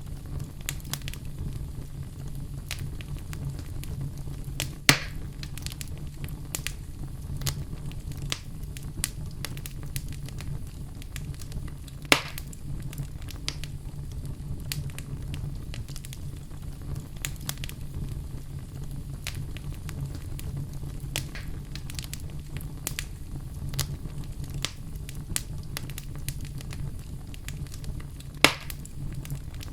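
Wood fire crackling steadily with many small pops, and three sharp, louder snaps at about 5 s, about 12 s and near the end, over a steady low hum.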